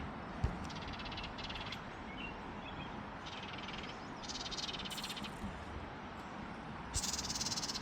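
Bird giving harsh, rapid rattling alarm calls in about five bursts, the last and loudest near the end: a warning at a cat that has come close.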